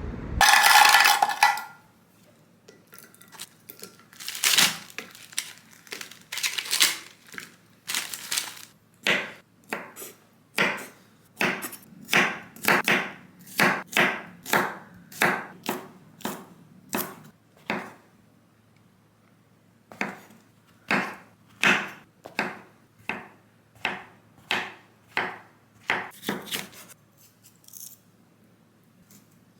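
Kitchen knife chopping food on a cutting board, unhurried single chops about one or two a second, with a short pause partway through. A brief loud clatter comes right at the start.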